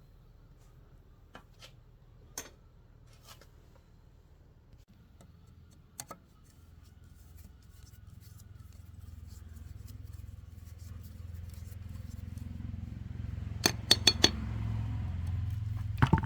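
Sharp metallic clicks and taps, a quick run of loud ones near the end, over a low hum that slowly grows louder.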